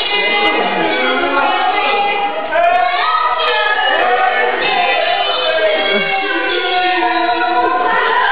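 A group of voices singing together without instruments, several lines overlapping.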